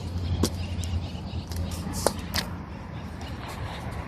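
Old Chevy truck's engine idling with a steady low rumble, with a few sharp clicks about half a second and two seconds in.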